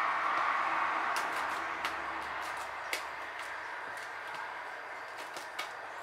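Small bird's claws and beak tapping on a desk, heard as scattered light, sharp clicks starting about a second in, over a steady hiss that slowly fades.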